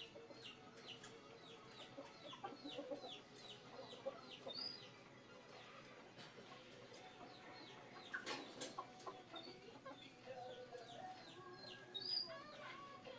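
Faint chickens clucking, with a quick run of high, falling chirps about four a second through the first few seconds. There is a single sharp knock about eight seconds in.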